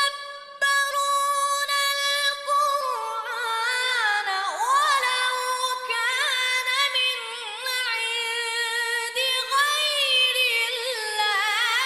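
Unaccompanied singing voices performing Qur'anic verses set for choir. Long held notes give way, about three seconds in, to ornamented lines that waver and glide in pitch.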